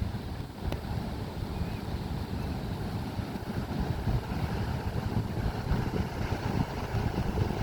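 Ocean surf washing on a beach, with wind buffeting the microphone in a gusty low rumble.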